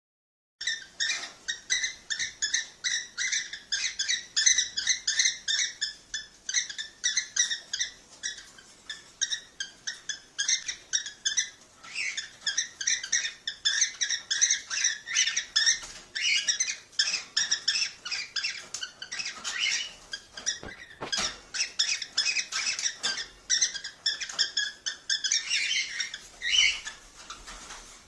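Cockatiels chirping in a rapid, continuous stream of short high chirps, starting about half a second in.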